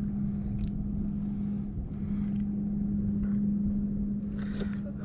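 Steady low hum of a boat motor over a low rumble, dropping out for a moment just under two seconds in, with a few faint clicks.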